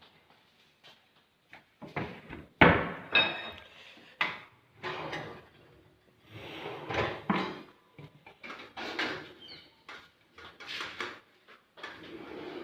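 Irregular knocks and scraping of wood being handled or worked, a few sharp knocks mixed with longer rasping passages.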